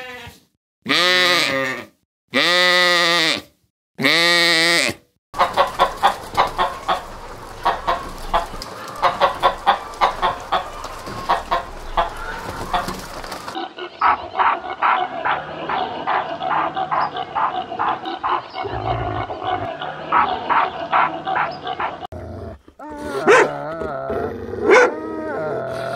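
Sheep bleating three times, then chickens clucking over a rapid scatter of scratching and pecking clicks, then a dog barking several times near the end.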